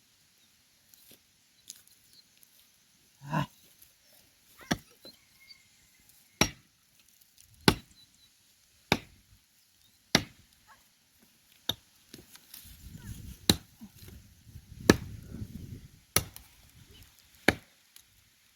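Axe chopping into the trunk of a dry standing tree: about eleven sharp strokes at a steady pace, a little over a second apart. The wood is dry and hard, so the cutting goes slowly.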